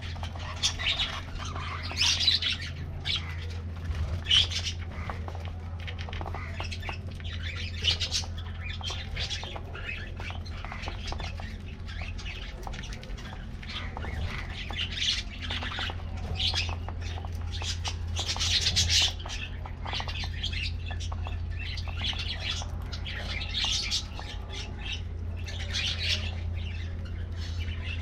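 A flock of budgerigars chattering, with many short, overlapping chirps and squawks, over a steady low hum.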